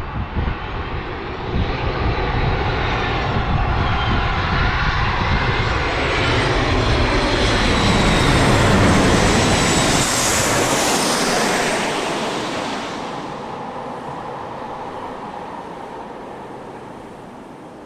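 Boeing 737 MAX 8 jet airliner on short final passing close by, its CFM LEAP-1B engines' roar and whine building to a peak about nine seconds in, the whine dropping in pitch as it passes, then fading away.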